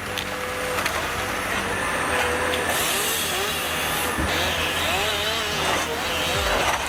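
Engine and hydraulics of a Komatsu 931XC forestry harvester running steadily while it works, with the pitch rising and falling.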